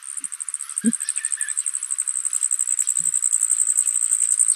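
Bee hummingbird's song: a very high, rapid, steady trill held for about four and a half seconds, then cutting off.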